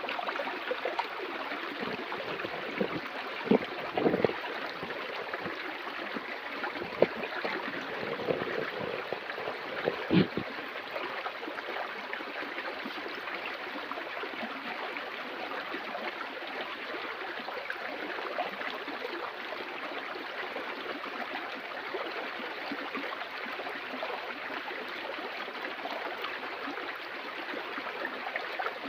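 Stream water flowing and rushing steadily, with a few short, louder splashes in the first ten seconds.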